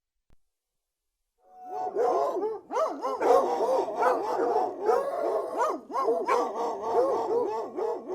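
A pack of hunting hounds baying in full cry: many dogs barking and howling over one another in a dense, continuous chorus. It fades in quickly about a second and a half in, after a silent start.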